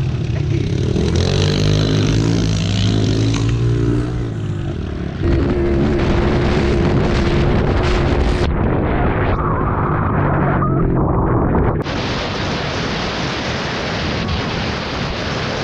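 Yamaha TT-R110 pit bike's small four-stroke single-cylinder engine running as it is ridden, its pitch rising and falling with the throttle, under heavy wind rush on the microphone. The sound changes abruptly twice in the second half.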